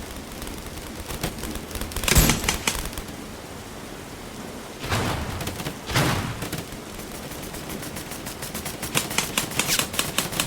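Airsoft guns firing: scattered sharp shots, a few louder cracks about two, five and six seconds in, then rapid fire that grows denser near the end.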